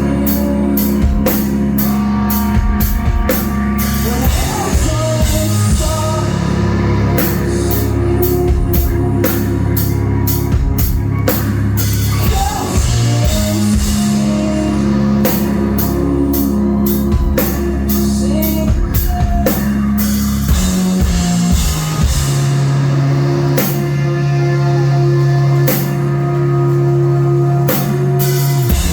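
Live rock band playing loud: a drum kit with frequent cymbal crashes over sustained, changing guitar and bass chords, recorded on a phone in the crowd.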